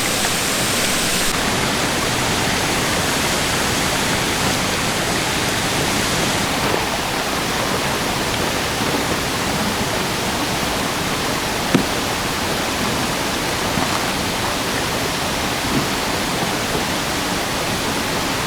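Creek water flowing, a steady rush, with a few faint clicks now and then.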